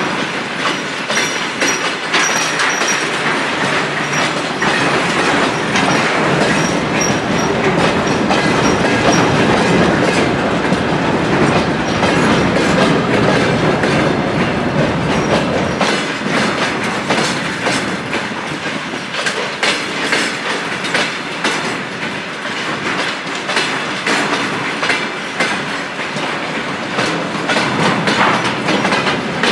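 Train rolling by on the rails, its steel wheels clattering over rail joints in a steady, continuous rumble, with a faint high squeal from the wheels in the first few seconds.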